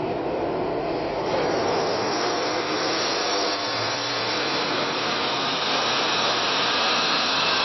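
Jet airliner engines at takeoff thrust: a steady rushing roar with a high whine, growing slightly louder.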